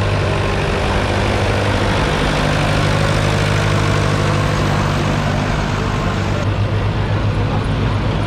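Vintage tractor engines running steadily, a low hum whose pitch shifts slightly about two seconds in.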